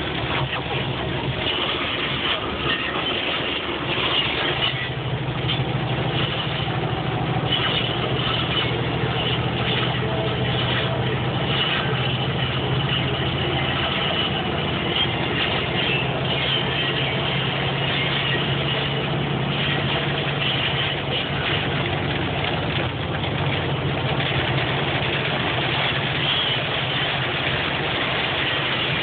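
Hailstones clattering densely and without letup on a vehicle, with a steady engine hum underneath.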